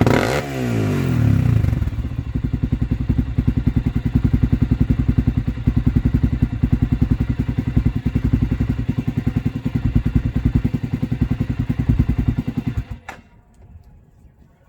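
Honda TRX400EX ATV's single-cylinder four-stroke engine through a Motoworks aftermarket exhaust: a quick throttle blip that falls back to a steady, pulsing idle. About 13 seconds in the engine is shut off, with a single click, and it goes quiet.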